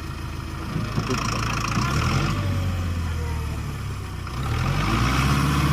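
Farmtrac 6055 CRDi tractor's diesel engine revving up twice, about a second in and again near the end, getting louder each time.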